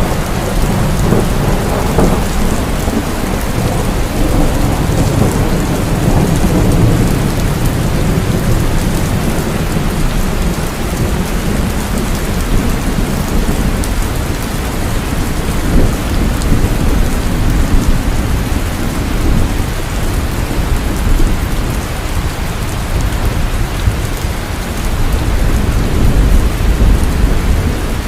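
Heavy rain falling steadily, with low rolling thunder rumbling underneath. The rumble is strongest in the first several seconds and swells again near the end.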